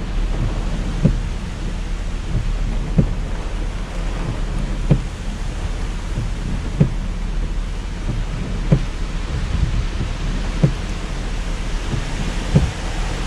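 Steady rain and wind heard from inside a parked truck, over a constant low rumble, with a short low thump about every two seconds in an even rhythm, typical of windshield wipers reaching the end of their sweep.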